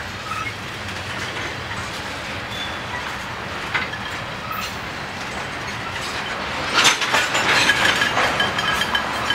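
Tank cars of a freight train rolling past: a steady rush and rattle of steel wheels on rail. About seven seconds in it grows louder with a run of sharp clacks as wheels cross a rail joint, and a thin high squeal joins near the end.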